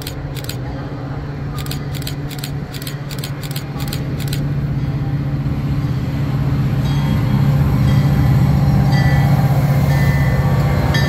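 Metra diesel locomotive hauling a passenger train toward the platform, its engine rumble and rail noise growing steadily louder as it nears. High squealing tones from the train join about seven seconds in. A quick run of sharp clicks sounds during the first four seconds.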